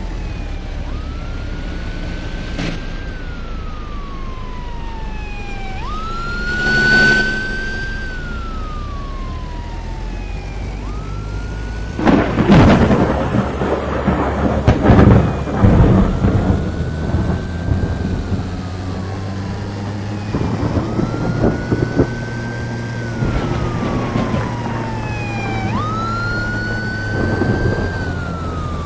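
A siren wailing, its pitch rising quickly and then falling slowly, again and again every several seconds, over a steady low hum. About twelve seconds in, loud rough bursts of noise break in for a few seconds.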